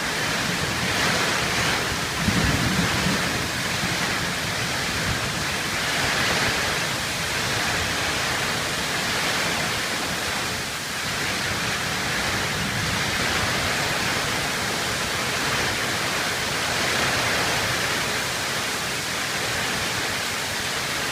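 Heavy storm rain pouring steadily in a dense, even hiss that swells slightly now and then.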